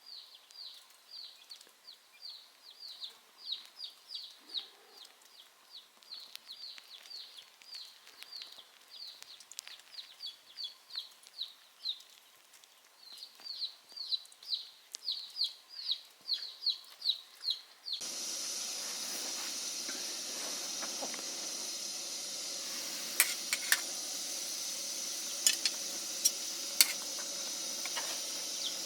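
A bird's short, high chirps, repeated two or three times a second. About two-thirds of the way in, this cuts suddenly to a steady sizzling hiss with a few sharp crackles.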